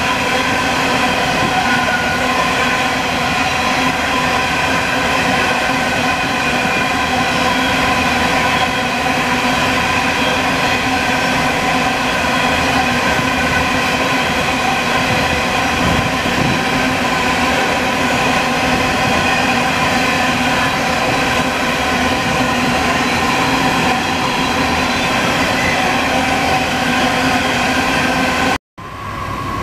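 Coal train hopper wagons rolling past at a steady speed: continuous wheel-on-rail rumble with a constant ringing whine held over it. The sound cuts off suddenly near the end.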